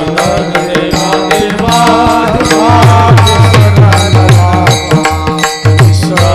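Instrumental interlude of a devotional abhang: a hand drum plays rhythmic strokes whose bass notes bend downward, under a held melody line, with sharp metallic clinks of small cymbals keeping time.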